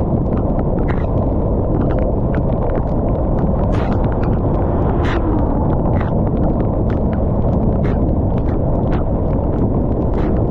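Rain falling, with many irregular sharp taps of drops striking a nearby surface over a steady low rush.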